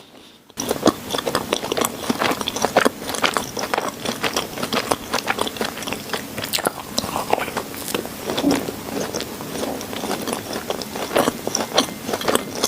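Eating sounds: biting into and chewing soft cream-filled chocolate donuts, a dense run of quick wet mouth clicks and smacks that starts about half a second in.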